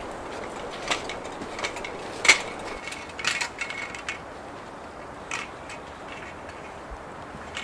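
A series of sharp clicks and knocks at irregular intervals over a steady background hiss. The loudest, about two seconds in, is followed by a brief ringing.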